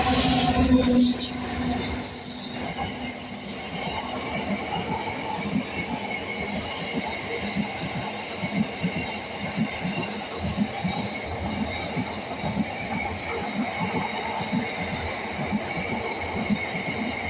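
Class 59 diesel-hauled freight train passing, the locomotive's EMD two-stroke V16 engine note loudest about the first second, then a long string of wagons rolling by with a steady rumble and rapid rhythmic wheel thumps over the rail joints.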